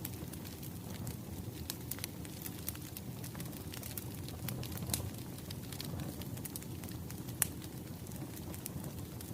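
Wood fire crackling: a steady low rumble of burning logs with frequent, irregular sharp pops and snaps.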